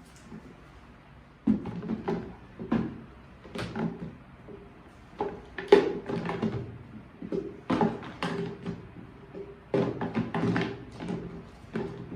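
Things being handled and set down on a hard surface: irregular clusters of knocks and clacks, the loudest about six seconds in.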